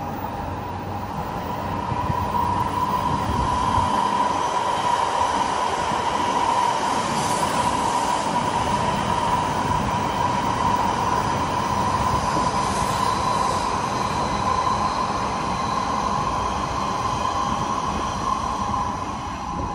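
Electric trains running past on the tracks below, a continuous rumble with a steady high-pitched whine over it. It swells about two seconds in and eases off near the end.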